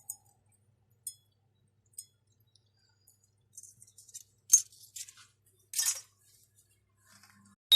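Metal parts and tools clinking and clicking as they are handled, a few scattered light clinks and then a busier group in the middle. At the very end the lathe starts up suddenly with a loud, steady running noise.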